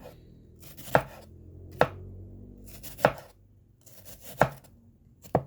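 Knife chopping onion on a cutting board: five slow, separate strikes about a second apart.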